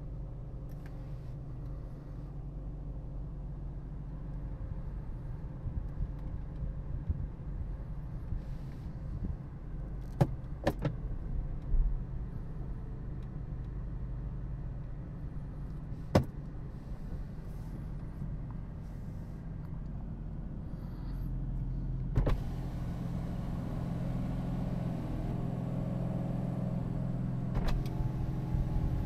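BMW M4's 3.0-litre twin-turbo straight-six idling, heard from inside the cabin, with a few sharp clicks along the way. About three-quarters of the way through the engine note grows fuller and a little louder as the car creeps in reverse.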